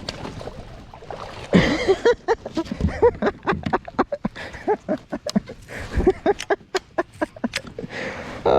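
A freshly caught largemouth bass thrashing in the plastic kayak: a fast, irregular run of hollow knocks and slaps against the hull.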